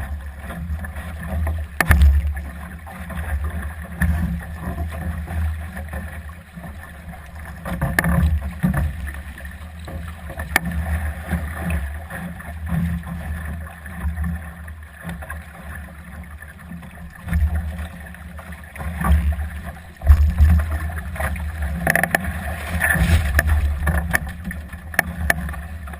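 Solo sailing dinghy underway in gusty wind: wind buffeting the microphone in uneven gusts over the rush of water along the hull, with a few sharp knocks.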